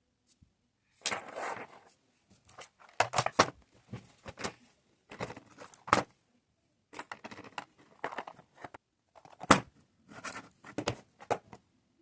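Diamond painting handling sounds: small resin drills clicking, tapping and rattling against plastic, with irregular sharp clicks and short rustles, about a dozen in all.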